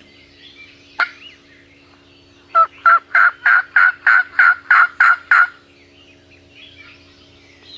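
Turkey yelping: a run of about ten evenly spaced, loud yelps, about three a second, lasting about three seconds. A single sharp click comes about a second in.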